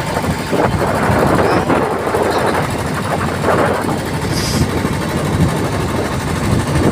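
Sonalika RX 47 tractor's diesel engine running steadily.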